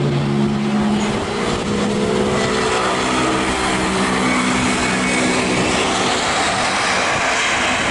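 Airbus A320-232 jet engines on landing approach: a loud, steady jet noise with several humming tones underneath, the rushing noise spreading higher in the later seconds.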